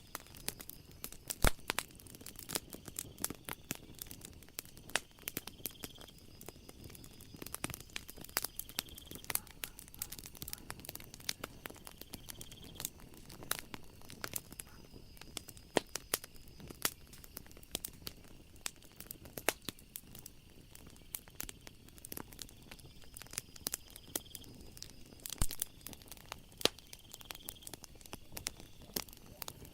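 Wood fire crackling with irregular snaps and pops, the sharpest about a second and a half in and again near twenty-five seconds. Crickets chirp steadily and faintly behind it.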